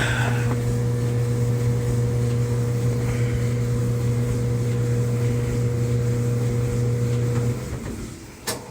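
GE electric clothes dryer running with its motor and drum giving a steady hum. It shuts off about seven and a half seconds in and winds down, followed by a single click. The dryer runs, but its heating element is not coming on, which the owner suspects could be the thermal fuse.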